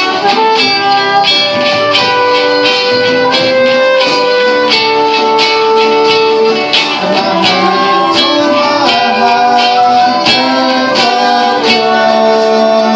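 Live band playing an instrumental passage of a folk song: acoustic guitar strumming steadily under held melody notes that change every second or so.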